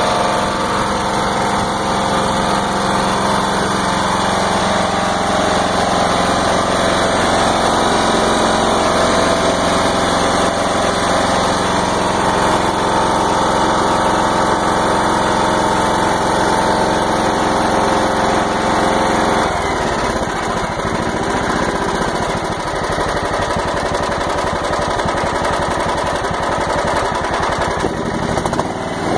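John Deere GT275 lawn tractor engine running steadily. About twenty seconds in its sound changes, the deep low part thinning out and the running turning rougher.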